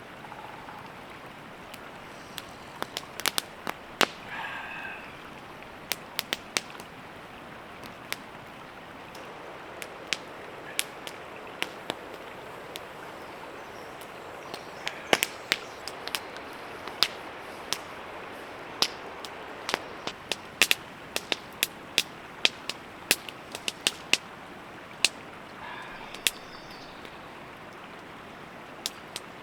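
Irregular sharp cracks and pops, some in quick clusters, over a steady hiss, with two brief bird calls, one about four seconds in and one near the end.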